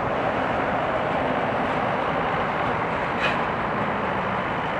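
Boeing 757-200 jet engines running, a steady even rushing noise, with a faint click about three seconds in.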